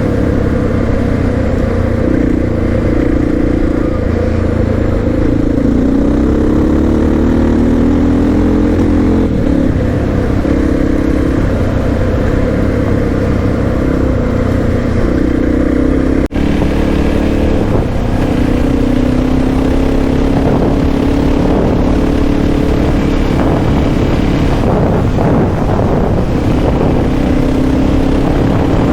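Honda XR650R's single-cylinder four-stroke engine running as the motorcycle is ridden, its note rising and falling with throttle and gear changes. A very brief break about halfway through.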